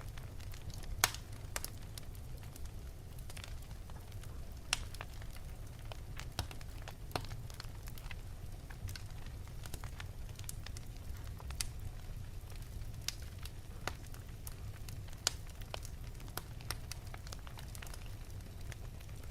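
Wood fire burning in an open fireplace: irregular sharp crackles and pops over a steady low rumble of the flames, the loudest pop about a second in.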